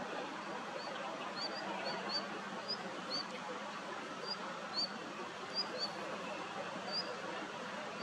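Small songbird calling: a string of short, high chirps at irregular intervals over a steady background hiss.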